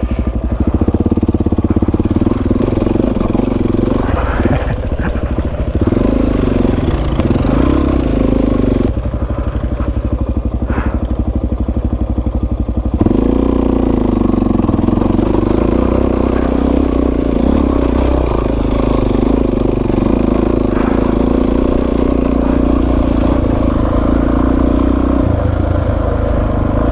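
Suzuki DR-Z400S single-cylinder four-stroke dual-sport motorcycle engine running under load on a trail climb. Its note rises and falls with the throttle, with a few sudden changes in pitch as it shifts or the rider rolls off and back on.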